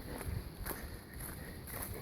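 Footsteps of a person walking along a trail at a steady pace, about two steps a second.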